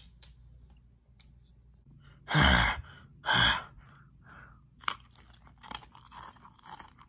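A person biting into a hard, bone-shaped dog biscuit: two loud crunches about a second apart, then quieter crunching and chewing.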